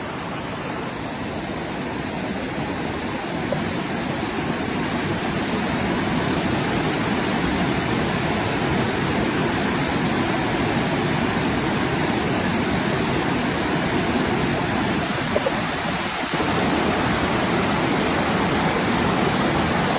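Cascading water of Dunn's River Falls pouring over rock terraces: a steady rush of falling water that grows louder over the first few seconds and dips briefly near the end.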